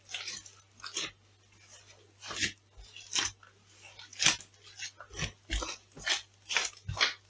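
Crunchy food being crushed underfoot: about a dozen separate crackling crunches at uneven intervals, the loudest about four seconds in.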